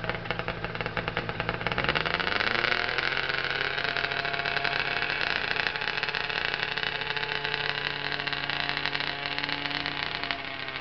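Competition pulling tractor's engine under heavy load in a tractor pull: the revs climb about two seconds in, then the engine holds a steady, high, rough-running note as it drags the sled.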